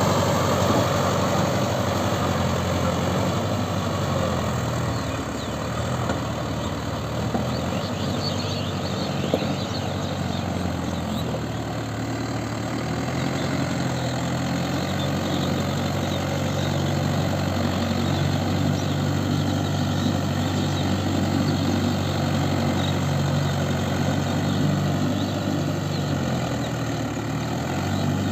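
A Mahindra Yuvo 575 tractor's four-cylinder diesel engine running steadily, its pitch wavering a little as the load changes.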